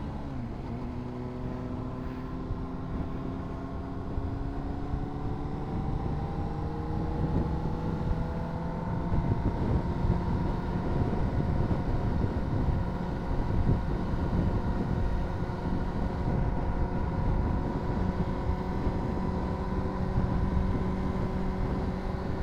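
Honda CBR600RR's inline-four engine pulling in one gear, its pitch rising slowly for about nine seconds, then holding steady at cruising speed, with wind rushing over the helmet microphone.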